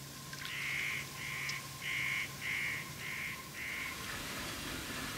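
A bird calling six times in an even series, each call about half a second long, over a faint steady background.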